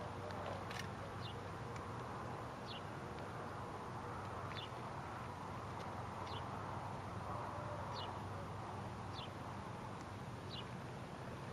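A bird repeating a short, falling chirp about once every second or so, over a steady outdoor background rumble.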